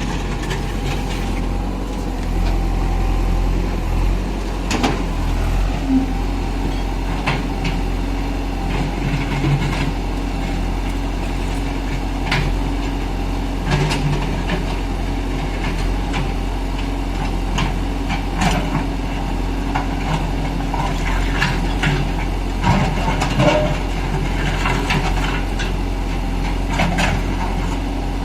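Heavy diesel machinery running steadily, with irregular metallic clanks and knocks over the top.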